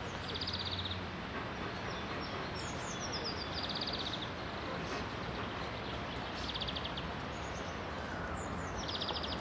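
A small songbird singing short phrases about every three seconds. Each phrase is a few quick high descending notes ending in a rapid trill, over a steady background hiss.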